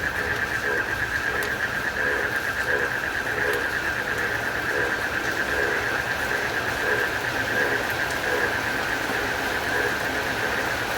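Steady rain with a constant pulsing chorus of crickets, and a frog calling over and over, a little more than once a second.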